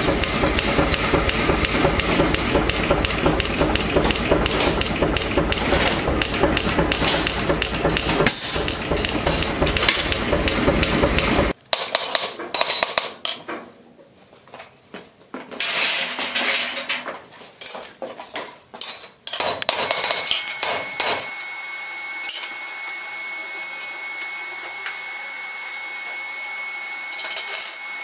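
Rapid, dense hammering on metal for about the first eleven seconds, then stops suddenly. Scattered metal knocks and clinks follow, and a quieter steady high-pitched hum sets in about 21 seconds in.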